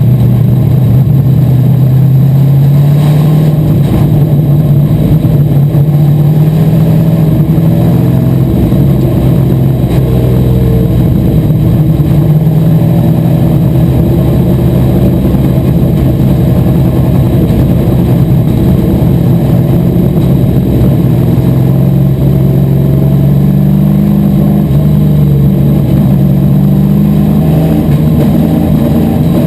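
Asphalt modified race car engine running hard and continuously, its pitch easing up and down and climbing near the end as the car accelerates.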